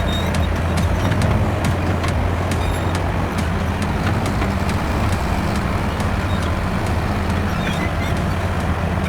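Heavy diesel machinery engine running steadily at a construction site, a low even drone, with sharp clicks or ticks over the first few seconds.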